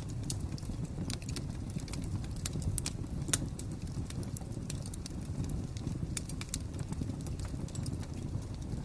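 Fire crackling: irregular sharp pops and snaps over a steady low rumble, with one louder pop about three and a half seconds in.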